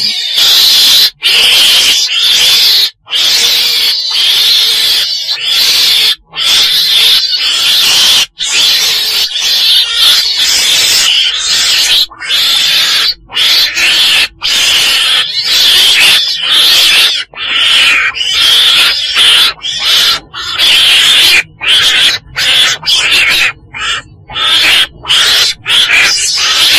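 Weasel calls: harsh, high, hissing cries one after another, with short breaks between them.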